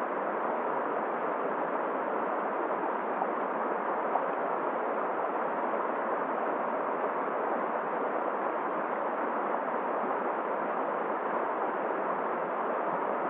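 Steady rushing of a flowing, icy river mixed with blowing wind, an even noise that holds without change.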